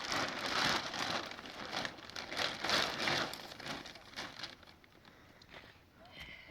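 Plastic sheeting crinkling and rustling as it is handled, in irregular crackly bursts that are loudest for the first four seconds and then die down.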